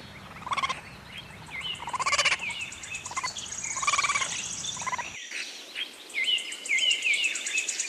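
Raccoon giving several short, trilling calls, with small birds chirping behind. About five seconds in, these give way to birdsong and a high, steady insect buzz.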